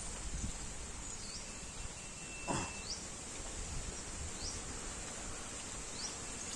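Outdoor insect chorus: a steady high-pitched drone with short chirps repeating about once a second, and one brief sharp sound about two and a half seconds in.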